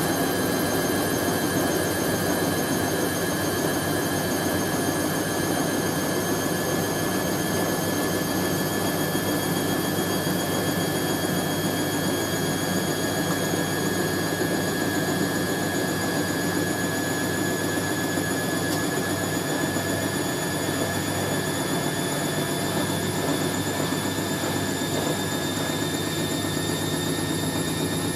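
Hoover A3060 Electronic 1100 washing machine spinning fast: a steady high motor whine over a dense drum rumble, creeping slightly up in pitch.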